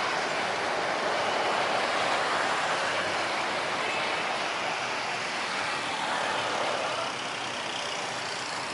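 Jet airliner passing on its landing approach: a steady rushing jet roar that swells and then eases off near the end.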